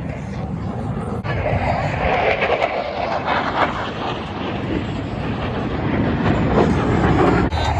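Jet aircraft flying past: a loud, steady rushing engine noise that swells towards the end, breaking off abruptly about a second in and again near the end.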